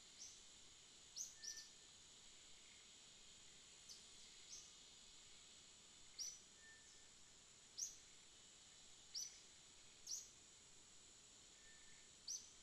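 Faint jungle ambience: a steady, high insect drone with short, high chirps every second or so, some of them louder.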